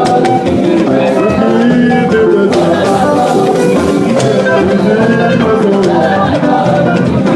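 Live church music for a choir anthem: instruments with drums and percussion playing on continuously between sung lines.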